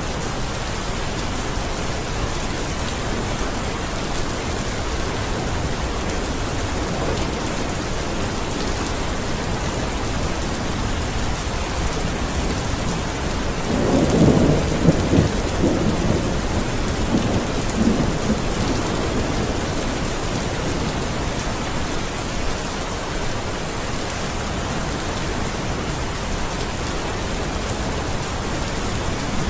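Steady rain falling on surfaces, an even hiss, with a low rumble of thunder rolling in about halfway through and fading over several seconds.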